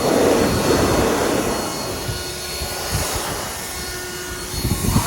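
An 80-volt cordless leaf blower running: a steady rush of air over a thin electric motor whine, loudest in the first second or so and surging again near the end.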